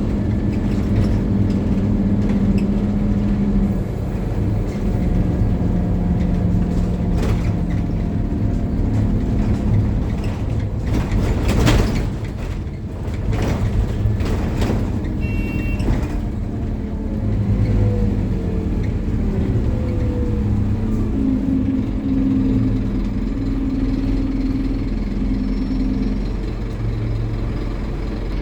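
Scania N270UD OmniCity double-deck bus running, its engine pitch stepping up and down with the gear changes. About halfway through there is a hiss of air, like air brakes or doors, and a short high beep; then a falling whine as the bus slows, before the engine pulls away again.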